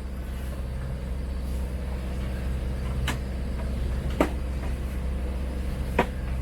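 Sailboat's engine running steadily under way, a constant low drone. Three sharp knocks come about 3, 4 and 6 seconds in, the second the loudest, as watermaker gear is packed into its container.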